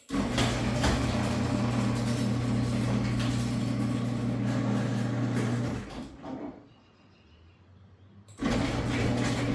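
Garage door opener motor running with a steady hum as it drives the door, stopping about six seconds in, then starting up again about two seconds later.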